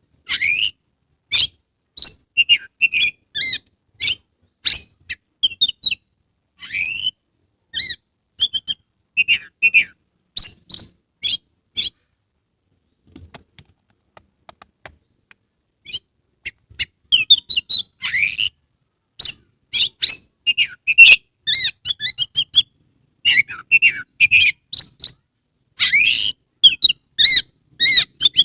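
Oriental magpie-robin (kacer) in full song: a rapid string of short, loud whistled and scratchy phrases with sharp clicking notes. It pauses for a few seconds about halfway through, then resumes.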